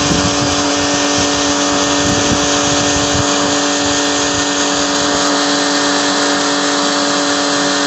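A machine running steadily: a constant hum at a few fixed pitches over a loud, even hiss, starting and cutting off abruptly.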